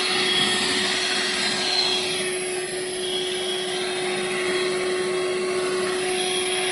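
Hoover Air Cordless 20-volt cordless vacuum, used as a handheld with its extension piece, running steadily with a constant motor whine over a rush of airflow.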